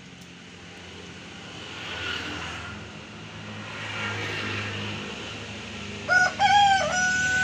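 A rooster crowing about six seconds in: two short notes, then a long held note that falls away at the end. Before it, a low steady hum and a swelling rush of background noise.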